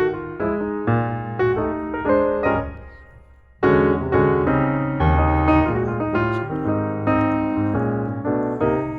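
Background piano music: chords and melody notes that die away about three seconds in, then start again after a short pause.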